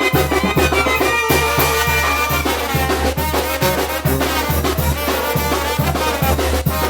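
Mexican brass band (banda) playing a lively tune, brass over a steady, pulsing bass beat.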